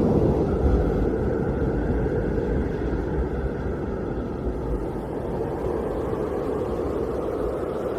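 Blizzard wind blowing hard, a low rumbling rush that eases a little midway and picks up again near the end.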